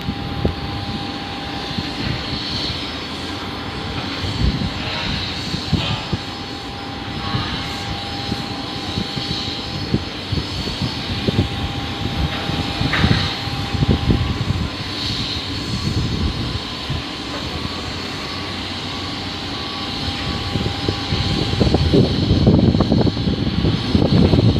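Fixed-wing aircraft engines running steadily, with a thin high whine that stops about halfway through. Toward the end the sound grows louder, with a rough low rumble.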